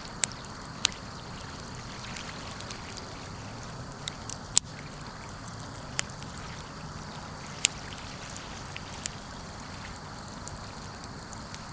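Wood fire crackling: a steady hiss of burning with sharp, irregular pops and snaps, the loudest about four and a half seconds in.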